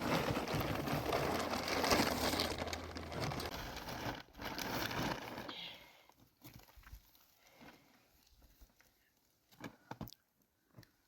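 Rustling and crinkling for about five seconds, then quieter, with a few light knocks and taps near the end.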